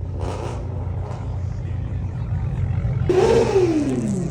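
A car engine running with a steady low drone, then revved loudly about three seconds in, its pitch falling away over about a second as the revs drop.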